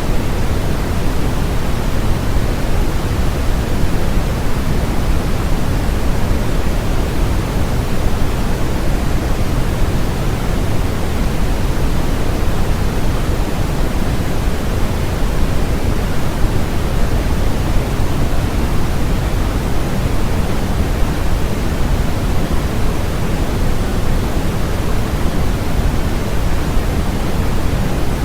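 Steady electronically generated white noise, an even hiss with no tones or events in it, with more weight in the low end than in the high.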